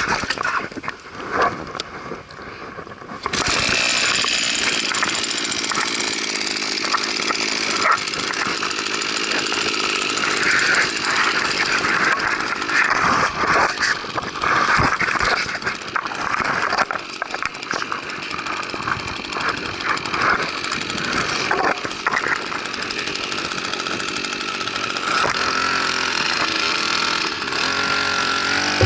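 Small 1.2 hp outboard motor starting up about three seconds in, then running steadily.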